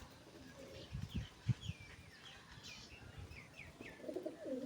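Birds chirping in short falling notes throughout, with a pigeon starting to coo near the end. A few low thumps come about a second in.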